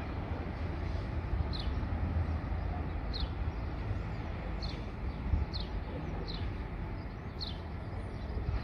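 A steady low rumble, with a bird repeating a short falling chirp about every second or so over it.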